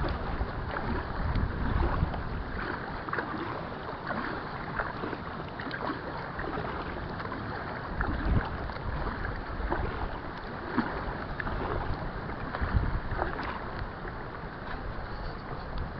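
Paddling an inflatable kayak: a paddle dipping and splashing in the water at irregular intervals, with gusts of wind buffeting the microphone.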